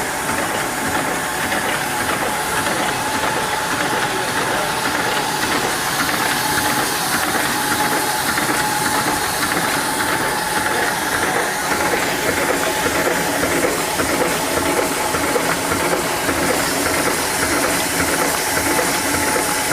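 Aseptic carton filling and packaging machine running: a steady mechanical clatter of mechanisms with hiss and a thin steady whine.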